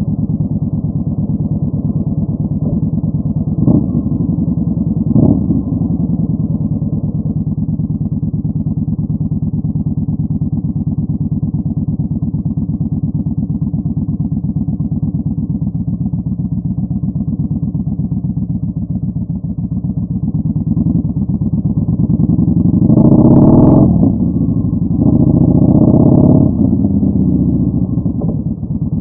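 Yamaha Bolt 950's air-cooled V-twin engine through a Vance & Hines Twin Slash staggered exhaust, running steadily under way. There are two brief sharp knocks about four and five seconds in. Near the end it gets louder twice under throttle, each time for a second or so.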